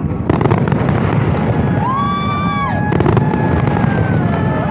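Fireworks display going off in rapid succession: a dense, continuous mix of booms and sharp crackling cracks. A few long, held high tones ride over the bangs, most plainly about two seconds in.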